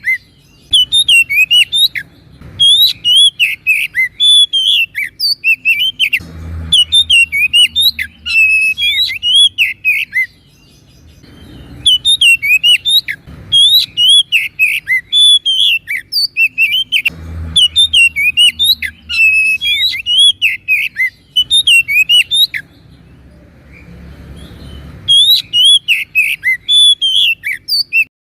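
Oriental magpie-robin singing loudly and continuously in long phrases of rapid, varied whistles and chirps, with two brief pauses.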